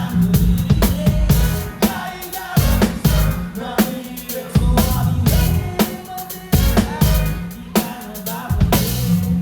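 Live band playing a pop song, with the drum kit loud and up close: a steady kick and snare beat with cymbals over bass and sustained guitar or keyboard tones.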